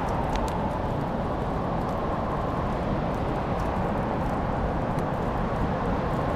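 Wood fire burning in a fireplace: a steady low rush of flame with scattered faint crackles and small pops.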